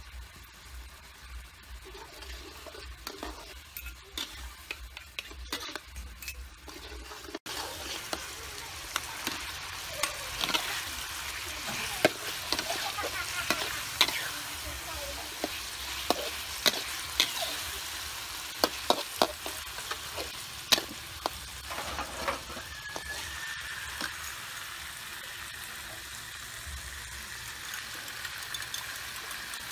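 Fish frying in spicy sauce in a steel wok: a steady sizzle, with a metal spatula stirring and scraping, clinking sharply against the pan. For the first seven seconds it is quieter, with only light clinks, before the sizzle and stirring come in.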